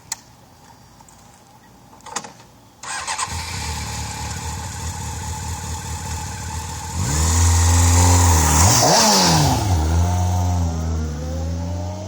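Honda CBR600F4i sport bike's inline-four engine, on its stock exhaust, starting up after a couple of clicks about three seconds in and idling. About seven seconds in it is held at higher revs and blipped up and down, then drops back toward idle with a smaller blip near the end.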